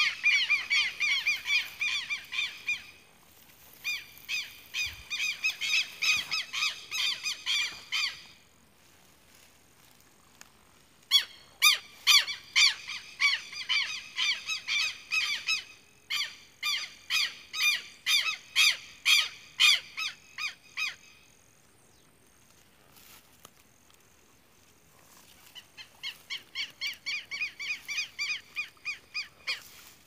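A bird calling in bouts of rapidly repeated harsh notes, about three notes a second. There are four bouts of several seconds each, with pauses between.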